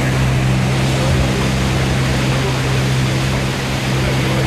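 Motorboat engine running at a steady pitch, with a constant rush of water and wind over it.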